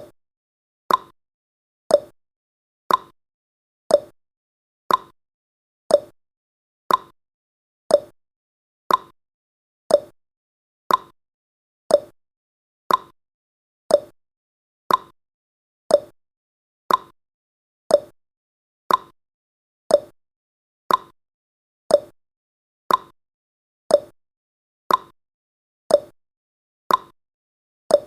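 Countdown timer's tick sound effect: a short, sharp tick once every second, evenly spaced.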